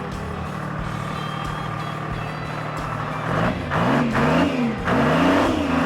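Diesel engine of a truck-mounted mobile drill rig running steadily just after a jump start. From about three seconds in it is revved up and down several times.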